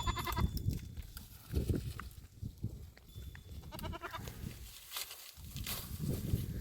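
Livestock bleating: two short wavering bleats, one at the very start and another about four seconds in, over low rustling and knocking.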